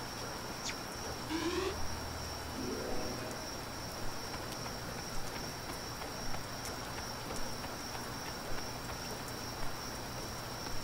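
Night ambience: crickets give a steady high trill over an even hiss of rain, with faint ticks about once a second and two short low tones in the first few seconds.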